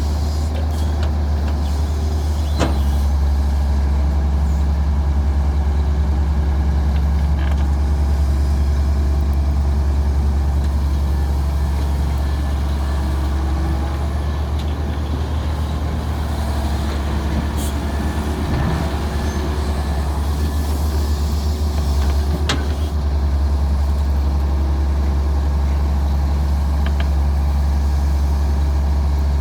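Diesel engine of a Daewoo 170W-3 wheeled excavator running steadily with a deep, even hum, with three sharp clanks at scattered moments.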